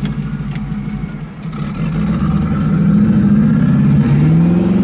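Turbocharged 454 big-block V8 engine running under load, dipping briefly about a second in, then climbing steadily in pitch and loudness as it pulls.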